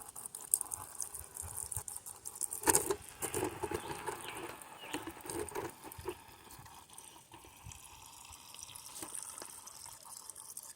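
Water trickling and pattering from a Camelbak hydration pack into a dog's water bowl, busiest with clicks and splashes from about three to six seconds in, then quieter.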